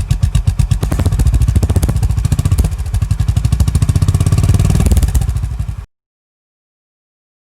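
Honda H'ness CB350's air-cooled single-cylinder engine running with a steady, even beat of exhaust pulses, picking up a little speed from about a second in. The sound cuts off abruptly near the six-second mark.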